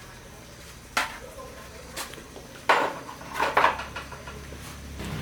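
Metal parts and tools clinking and knocking during work on a motorbike: about five sharp strikes, the loudest a cluster around the middle.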